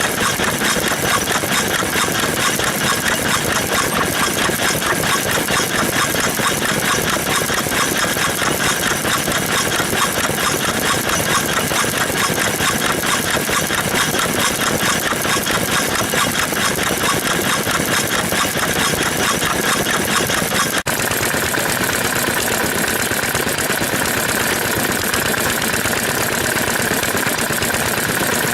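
Vintage stationary engines running with a fast, even beat. About two-thirds of the way through, the sound breaks off suddenly and continues as a smoother, steadier engine run.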